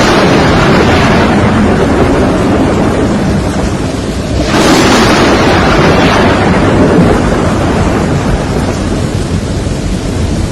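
Thunderstorm: a loud thunderclap about four and a half seconds in that rumbles away slowly, over steady heavy rain.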